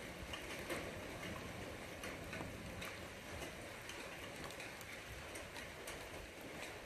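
Steady rain falling, with scattered individual drops ticking sharply through it.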